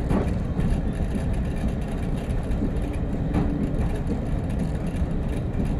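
Steady rumble in the cab of a diesel train coasting in fourth gear with the throttle off: the engine ticking over under the running noise of the train.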